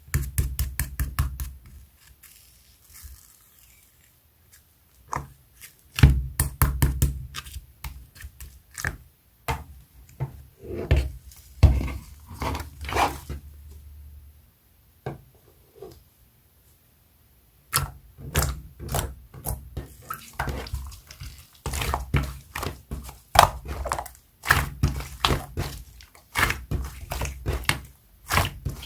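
Sky-blue clay slime being squished and poked by hand, making quick runs of sharp clicks and pops over low thuds, with a couple of short pauses.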